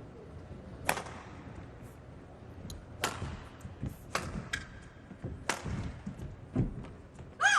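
Badminton rally: sharp cracks of rackets striking the shuttlecock, four of them one to two seconds apart, with low thuds of footwork on the court and a short squeal near the end.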